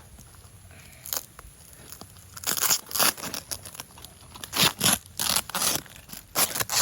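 Thick adhesive packing tape being ripped off a parcel in a quick series of loud tearing pulls, beginning about two and a half seconds in.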